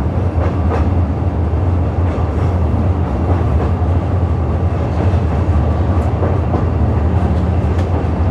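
Ikawa Line train climbing the 90‰ Abt rack section, pushed by its Abt-system electric locomotive: a steady low rumble with occasional light clicks.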